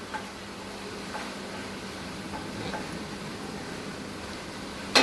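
Finished chicken kadahi being served out of the pan: a few faint utensil taps over a steady background hiss, then one sharp metal clank right at the end.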